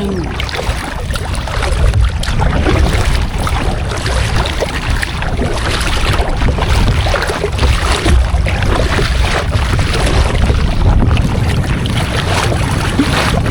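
Wind buffeting the microphone on a kayak at sea: a steady rough rumble with many small gusty crackles, over the sound of sea water.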